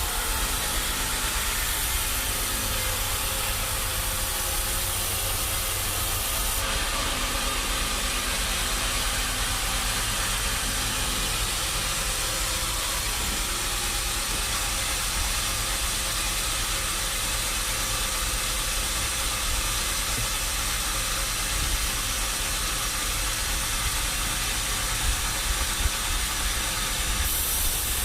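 Steady machinery noise: a constant hiss over a low hum, unbroken throughout, with a slight change in character about seven seconds in and again near the end.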